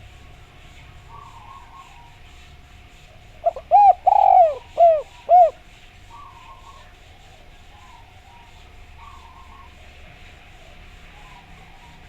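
Spotted dove (derkuku) cooing: one phrase of about five coos, a longer one in the middle, starting about three and a half seconds in. A faint steady tone and soft repeated chirps run underneath.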